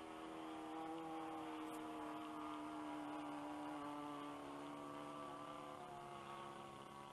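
Engine of a radio-controlled Skyraider model plane flying overhead: a faint, steady drone whose pitch sags slowly through the middle as the plane passes.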